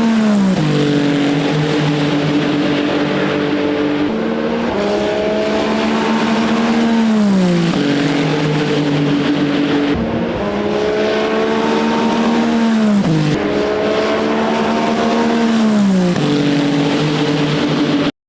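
Ferrari 499P hypercar's twin-turbo 120° V6 passing at racing speed, several times over. Each pass holds a steady high engine note, then glides down in pitch as the car goes by. The sound cuts off abruptly at the very end.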